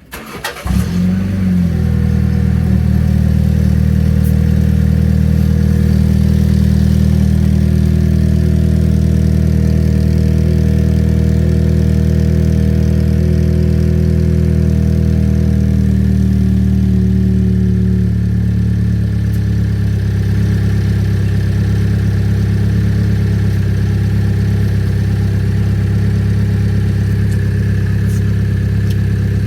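Mini Cooper S F56 engine with its stock exhaust, starting up with a brief flare of revs and then idling steadily. The idle drops slightly to a lower speed about two-thirds of the way through.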